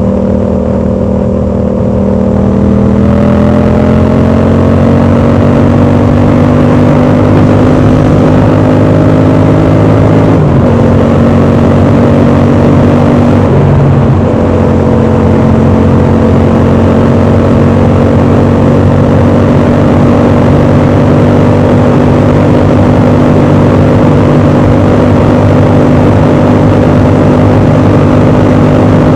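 Yamaha MT-07 parallel-twin engine running through an exhaust with its dB killer fitted. It holds high, steady revs, with the pitch rising over the first few seconds and two brief dips about 10 and 14 seconds in.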